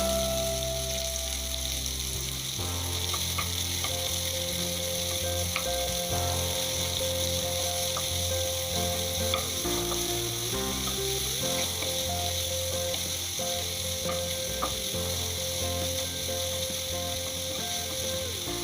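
Food frying in a hot pan, sizzling steadily, with occasional small clicks of a utensil as it is stirred.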